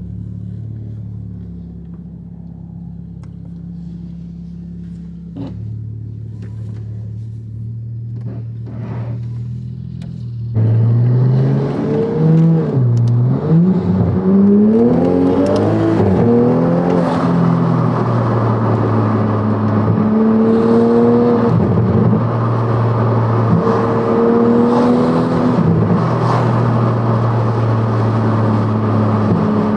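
Toyota Supra A90's B58 turbocharged inline-six, breathing through an AMS catted downpipe and RK Titanium exhaust, runs low and steady for about ten seconds. The engine note then suddenly gets much louder, its pitch climbing and dropping with several gear changes, and settles into a steadier drone with gentle rises and falls.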